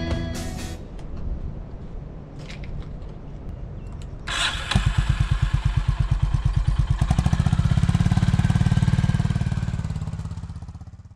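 Honda CB350 motorcycle engine starting about four seconds in, then idling with an even pulsing beat, fading out near the end. Guitar music fades away at the very start.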